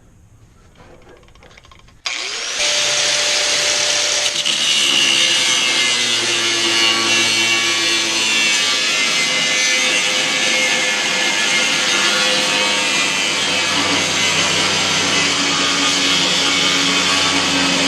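A power tool switches on about two seconds in and runs steadily, cutting metal stock for the hitch.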